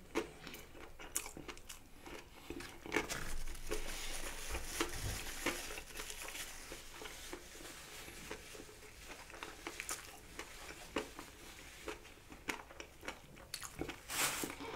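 Close-miked chewing of a bite of sauced fried chicken: crunching with many short mouth clicks, densest a few seconds in, and a louder crunch near the end.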